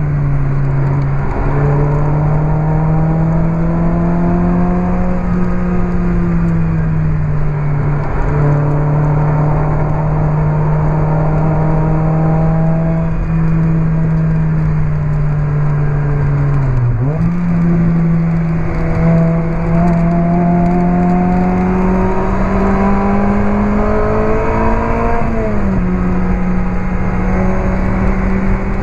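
Onboard sound of a Lotus Elise 111R's Toyota 2ZZ-GE inline-four engine through a Larini Stage 2 exhaust, pulling hard on track with its pitch rising and falling with throttle and gear changes. The note dips sharply and climbs again about 17 seconds in, and drops with a shift near the end.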